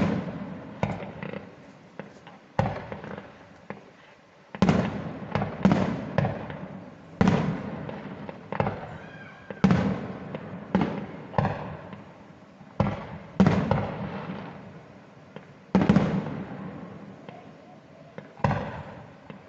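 Fireworks going off in an irregular series of loud bangs, some in quick clusters, each followed by a long rumbling echo that fades over about a second.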